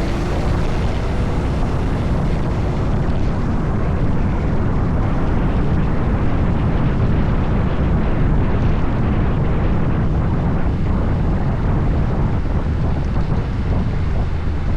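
Wind rushing over the microphone of a Honda Forza 750 maxi-scooter riding at speed, a loud, steady low rumble that covers the engine.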